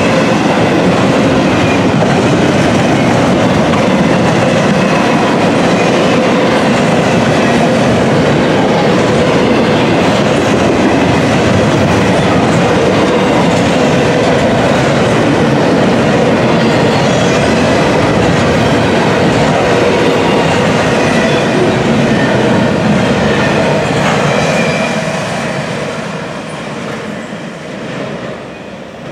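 Double-stack intermodal container well cars of a freight train rolling past close by, a steady loud rumble of steel wheels on the rails. About 24 seconds in the last car goes by and the sound fades as the train moves away.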